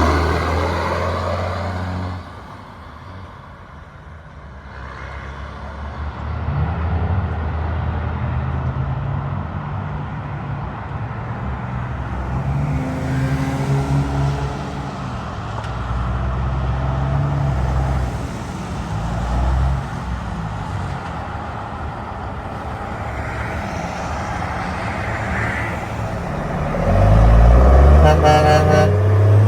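Road traffic, trucks and cars, passing one after another with low engine drone. A loud pass fades out about two seconds in, and another loud vehicle comes by near the end.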